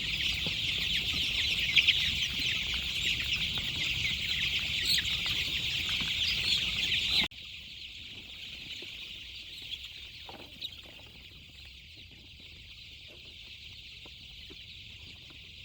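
Chickens clucking over a dense, high-pitched chorus. About seven seconds in, the sound cuts abruptly to a much quieter stretch with only a few faint calls.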